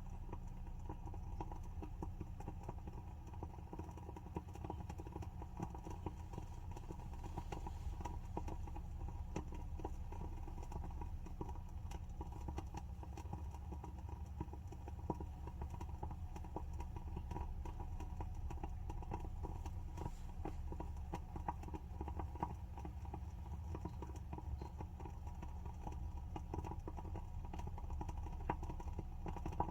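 WoodWick candle's wooden wick crackling as it burns: a steady stream of small, quick pops and clicks, with a few louder pops now and then.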